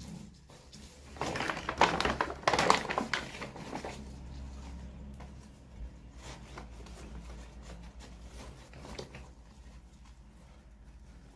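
Hands handling toy packaging: a couple of seconds of rustling and crackling, then scattered light clicks and taps.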